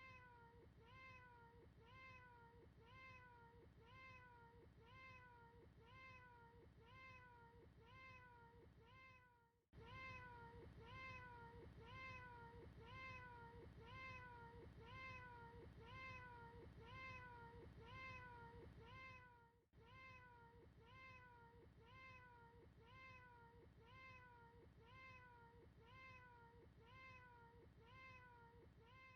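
A short recording of a cat meowing, looped so that the same meow repeats about twice a second, each call rising and falling in pitch. The sound is faint, with brief dropouts about every ten seconds where the loop restarts.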